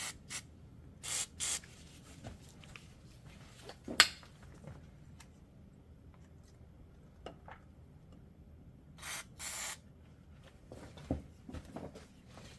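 Aerosol can of WD-40 sprayed onto the hub bearing bolts in short hissing bursts: two about a second in and two more near the end. A single sharp click about four seconds in.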